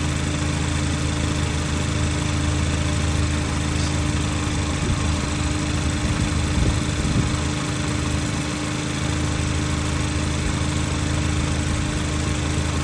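Cadillac ATS engine idling steadily at operating temperature while its cooling system is checked after a coolant leak repair.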